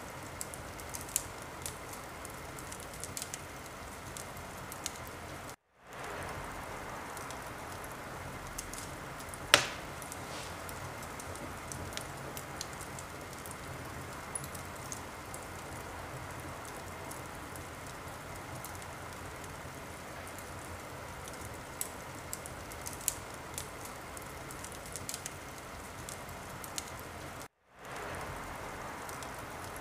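Wood fire burning in a fireplace: a steady hiss with scattered crackles and pops, one much louder pop about ten seconds in. The sound cuts out for a moment twice, once around six seconds in and once near the end.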